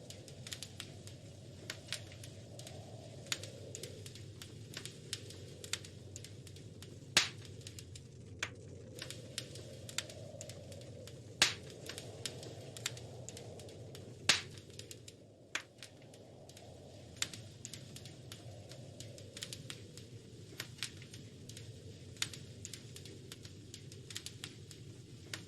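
Wood fire crackling in a fireplace: a steady low rush with many irregular snaps and pops, three sharp loud pops standing out a few seconds apart in the middle.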